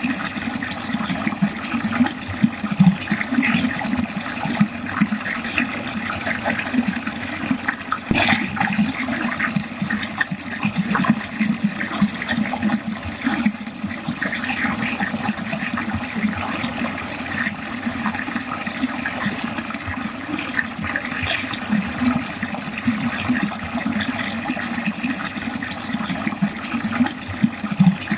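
Water running steadily down a drain, gurgling and splashing without a break.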